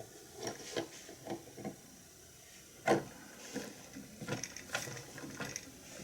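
Rubber tire and plastic wheel of a toy tow truck being handled and worked onto the hub: a scatter of light clicks and knocks, with one sharper knock about halfway through.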